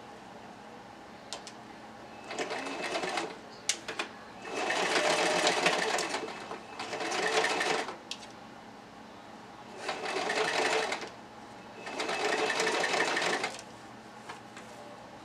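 Sewing machine stitching in five short runs of about one to two seconds each, with brief pauses and a few small clicks between them, sewing hair tracks onto a wig cap.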